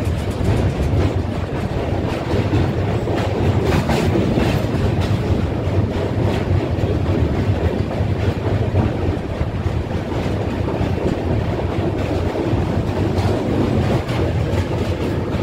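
Express train's coaches running at speed: a steady rumble of steel wheels on the rails, with a few faint clicks a few seconds in.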